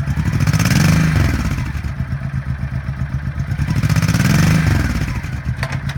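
1998 Honda VT1100C Shadow Spirit's 1100cc liquid-cooled V-twin idling, revved twice with short throttle blips: once about a second in and again about four seconds in.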